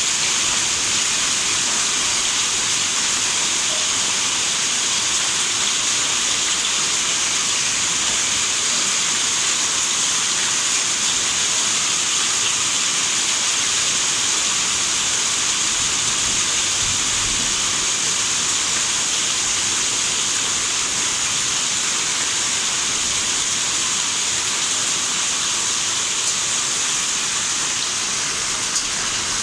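Heavy rain pouring steadily during a hailstorm, an even, unbroken hiss.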